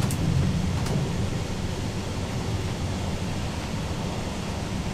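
Steady low rumble of a passenger train running along the line, heard from inside the carriage, with a faint click or two near the start.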